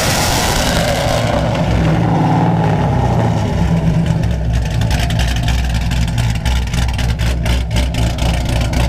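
Chevrolet Camaro V8 with a loud aftermarket exhaust being revved for a decibel reading. The rev fades in the first second or two, and from about four seconds in it settles to a choppy, loping idle typical of a cammed engine.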